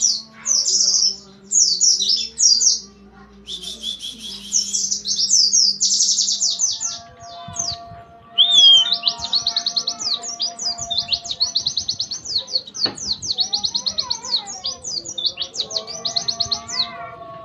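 White-eye (pleci) singing a rapid, dense song of fast high trills and chatter. The phrases run almost back to back, with a couple of short breaks.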